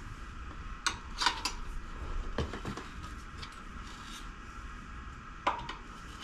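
Metal tyre levers clinking and knocking against a motorcycle wheel rim a few times while the tyre bead is worked onto the rim.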